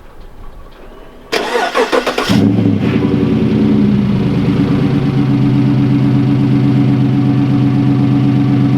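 2016 Chevrolet Silverado's 5.3L V8 being started: the starter cranks for about a second, then the engine catches with a brief flare just over two seconds in and settles into a steady, loud idle through its exhaust.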